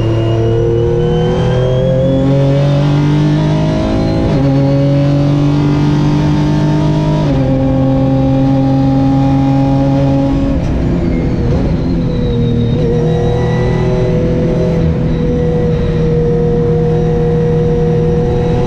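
Renault Mégane V6 Trophy race car's 3.5-litre V6 under hard acceleration, rising in pitch with upshifts about four and seven seconds in. It eases off about ten seconds in, then holds a steady engine speed to the end.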